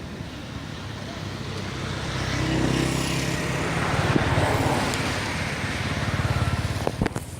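Road traffic: a motor vehicle's engine grows louder about two seconds in and passes close by, followed by a couple of sharp clicks near the end.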